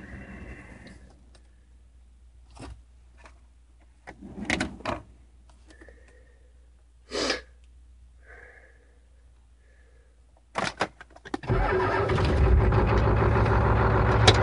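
A few scattered clicks in a quiet cab while the glow plugs heat, then about eleven seconds in a Ford 7.3 IDI V8 diesel cranks for barely half a second and catches on a cold start with no block heater, running loud and steady after it fires.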